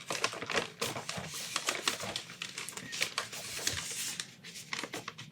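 Paper packaging being fumbled at and crinkled close to the microphone, a dense run of quick, irregular crackles and taps as someone struggles to get it open.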